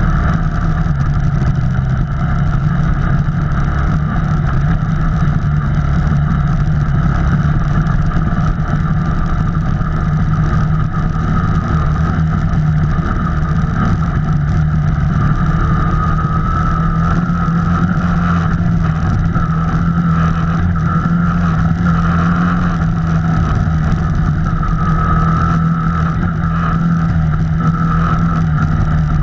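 Off-road vehicle engine running steadily while driving a trail, with a steady higher-pitched whine on top of the low engine hum.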